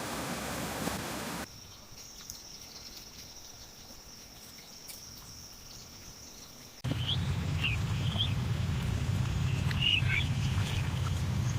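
Outdoor ambience in three abruptly cut sections. First a steady hiss, then a quieter stretch with a thin steady high tone and faint clicks, then from about two-thirds of the way in a low rumble with several short bird chirps.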